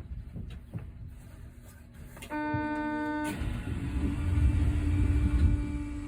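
Electronic buzzer tone on board an Osaka Metro New Tram rubber-tyred automated train, held for about a second, cut off by a sudden knock. A low rumble then swells under a steady hum as the train moves off.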